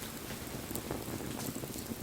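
Wood bonfire burning: a steady hiss and low rumble of the flames, with a few faint crackles.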